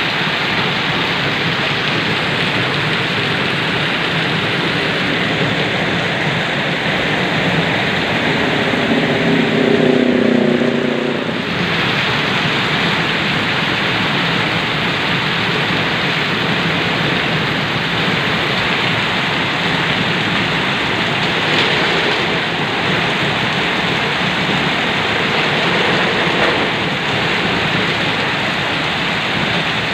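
Heavy rain falling in a steady, dense downpour. About a third of the way in there is a brief low hum made of several steady tones.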